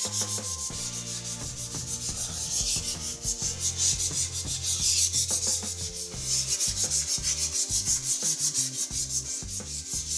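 Hand-held sandpaper rubbed over a wall coated with dried wall putty (massa corrida). It makes a scratchy sanding sound in quick back-and-forth strokes, about four a second: the putty coat is being sanded smooth.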